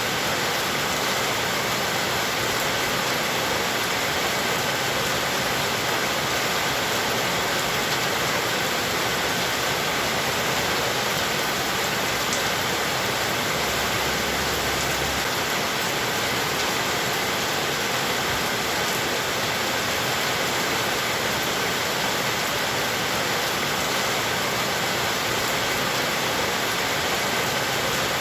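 Heavy rain falling steadily, an even hiss without breaks or changes.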